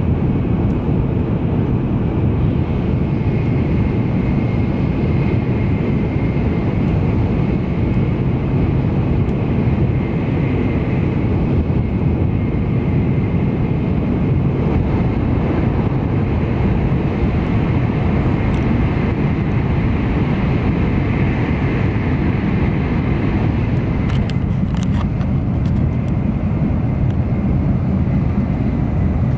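Steady interior noise of an N700-series Shinkansen train running at high speed, heard from inside the passenger cabin: a constant low rumble with a fainter hiss above it.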